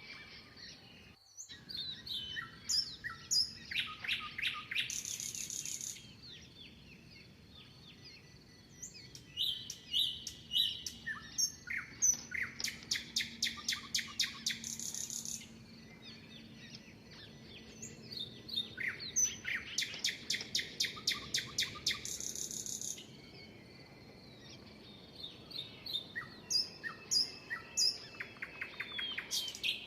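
Birdsong: a songbird repeating a phrase of chirps that ends in a fast, even trill of rapid notes, the phrase coming back about every seven to eight seconds, with softer calls from other birds between.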